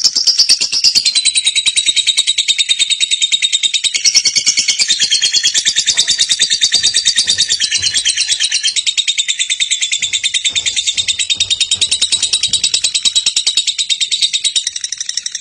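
Lovebird singing a long, unbroken 'ngekek' chatter: a fast, continuous run of high, shrill chirps.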